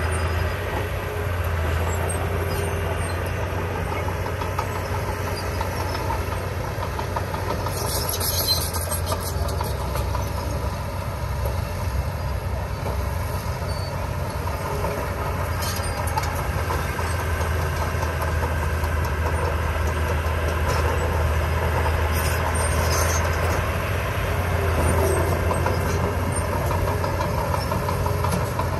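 Diesel engine of heavy construction machinery running steadily under load, with a deep, even hum and a few short metallic clanks.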